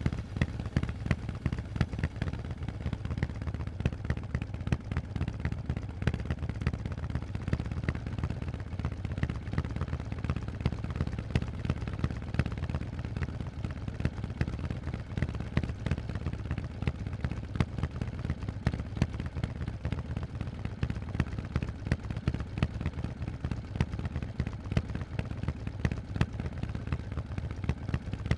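Harley-Davidson Forty-Eight's 1200 cc air-cooled V-twin running loud through Vance & Hines exhaust pipes: a fast, even stream of exhaust pulses with sharp cracks all through, holding steady with no big changes in revs.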